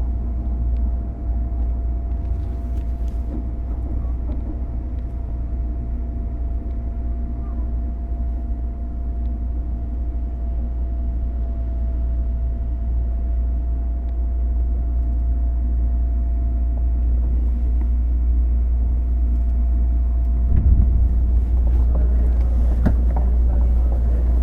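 Running sound inside a JR 205-series electric train's motor car, with MT61 externally ventilated traction motors: a steady low rumble of motors and wheels on rail, with a constant hum-like tone. It grows a little louder toward the end, where a couple of short knocks stand out.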